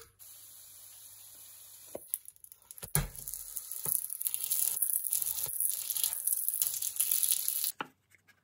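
Cheese-filled flatbread sizzling and crackling as it fries in a frying pan, with a single knock about three seconds in. The sizzle cuts off suddenly near the end.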